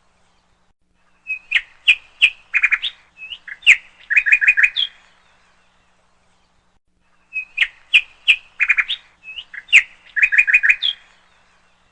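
A songbird singing the same phrase twice, about six seconds apart. Each phrase is a run of quick chirps and short whistles lasting about three and a half seconds, with silence between.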